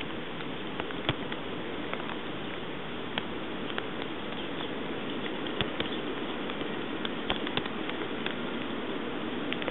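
Steady rain falling, a continuous hiss dotted with irregular sharp taps of single drops.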